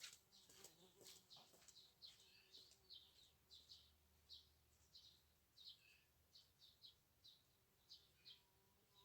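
Faint birds chirping outdoors: short, high chirps repeated about once or twice a second.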